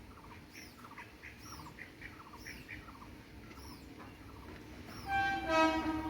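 Small birds chirping over and over, short high arched notes repeating about every half second. Near the end a louder, deeper pitched honk sounds for about a second.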